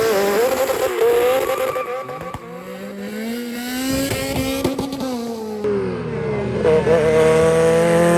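Race car engines revving and accelerating, the engine pitch climbing and falling repeatedly. The sound changes abruptly about five and a half seconds in, as from one car or clip to another.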